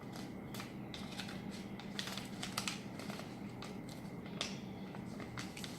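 A sheet of paper being handled, folded and creased by hand: irregular crisp rustles and small clicks, a few sharper ones in a cluster in the middle.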